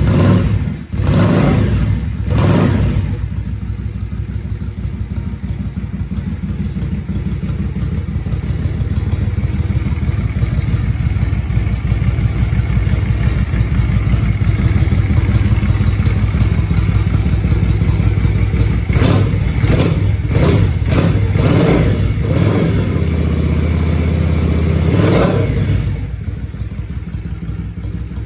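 Yamaha XV535 Virago V-twin engine through a Highway Hawk aftermarket exhaust, revved a few times at the start, then running steadily. About two thirds of the way in comes a run of quick throttle blips, and it drops back to a lower idle near the end.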